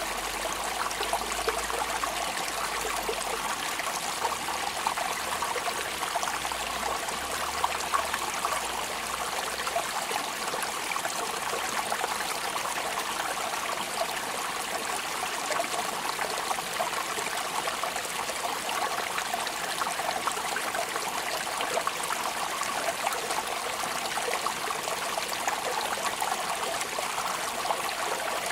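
Steady rain falling: an even hiss made of many small drops, with no change in strength.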